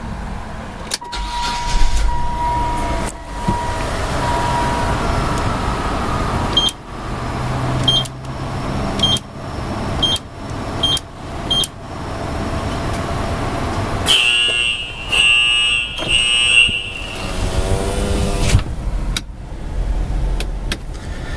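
Car wash machinery running around a car parked in the bay. A run of six short high beeps with clicks comes in the middle, then a loud buzzing tone lasting about three seconds, likely the wash signalling before the conveyor starts.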